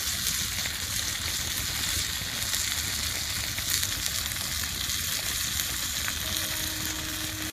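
Peri chicken breasts frying over a campfire: a steady, dense sizzle.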